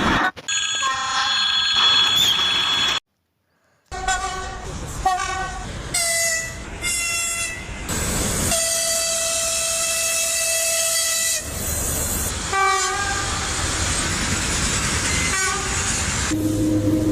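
Train air horns (typhons) sounding in a string of short blasts and one long blast of about three seconds, over the running noise of the trains. About three seconds in there is a silent break of a second, and the horns change in pitch from one passage to the next.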